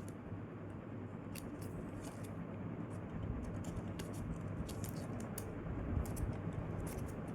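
Folded paper airplane handled in the hands, its retractable paper landing gear worked back and forth: stiff paper rustling with many scattered small crinkling clicks.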